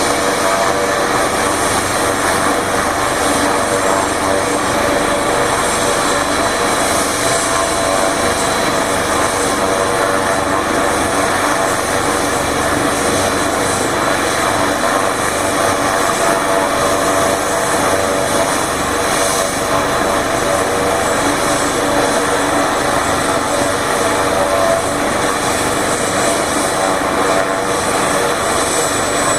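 Air-ambulance helicopter running steadily, the turbine whine and rotor noise holding at a constant level with a thin high whine over them.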